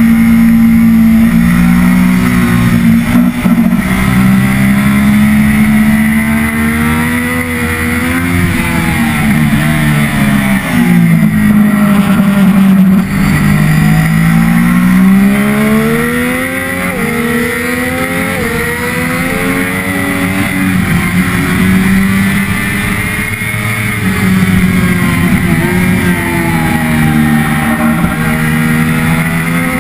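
Triumph Daytona 675R's three-cylinder engine at racing speed, revving up and down as the bike brakes and accelerates. The engine note falls low near the middle, then climbs again in several stepped rises through the upshifts, over a steady rush of wind noise.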